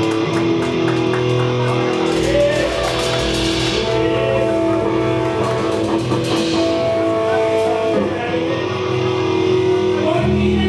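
Live rock band playing: guitar chords held and ringing, changing every couple of seconds over bass, with cymbals swelling up twice in the middle.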